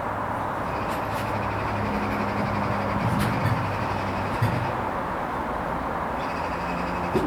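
Hoover Vision HVP16 washing machine partway through a Silks 30 wash, its drum motor humming steadily as the drum turns. A few light knocks sound, one near the end.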